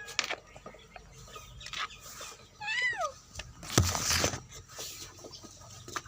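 A cat gives one short meow that falls in pitch, about halfway through. About a second later comes a loud, brief noise with a low thump, the loudest sound here, among scattered light clicks and knocks.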